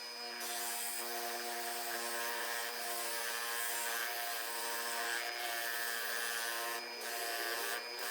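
A steady machine hum with several evenly spaced tones, wavering slightly partway through.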